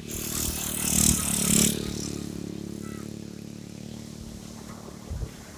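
A wave breaks with a loud hiss in the first two seconds, then fades. Under it, a motor runs steadily with a low hum.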